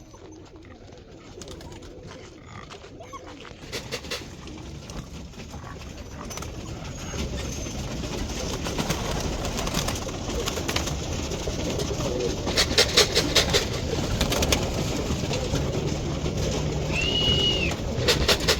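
Roller pigeons cooing in the loft, getting busier and louder about a third of the way in. Bursts of rapid clicking clatter come about two-thirds in and again at the end, with one short high squeak just before.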